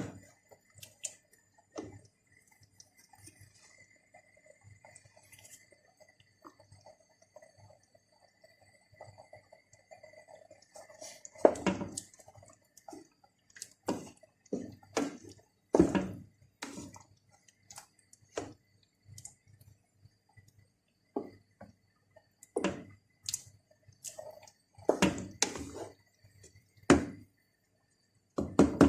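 Kitchen cookware and utensils knocking and clinking irregularly, starting about eleven seconds in, after a stretch of faint steady sound.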